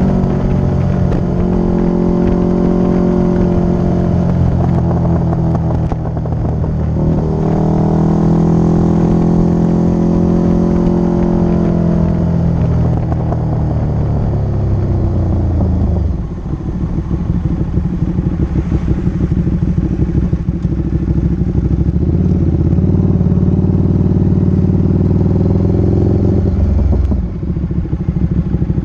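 Motorcycle engine running during a ride. Its pitch dips and climbs again about six seconds in, sinks away from about twelve seconds, then changes suddenly at about sixteen seconds and again near the end.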